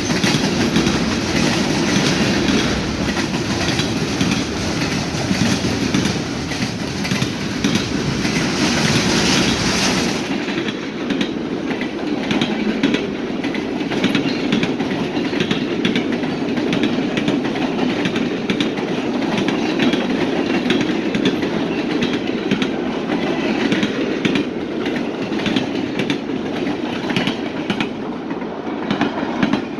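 Freight train cars rolling past, their wheels clicking over the rail joints in a steady run of clicks. About a third of the way in, the deep rumble drops away abruptly and the clicking carries on.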